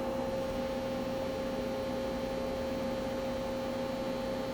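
Steady electrical and mechanical hum of a powered-up Nakamura-Tome CNC turning center standing idle: one constant tone over a low even background noise, with no changes.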